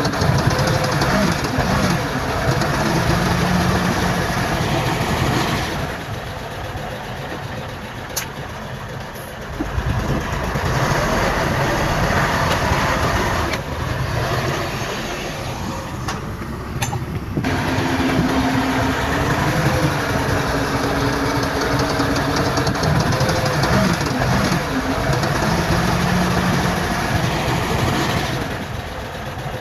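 Heavy diesel engines of earthmoving machines running and working, their pitch rising and falling as they rev under load. The machines ease off and get quieter for a few seconds at a time, twice in the middle and again near the end.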